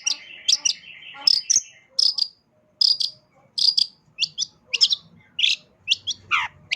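Long-tailed shrike (cendet) singing a varied mimicking song of short, sharp, high chirps in quick succession. A buzzing, insect-like trill runs under the first second and a half, and a downward-sliding note comes near the end.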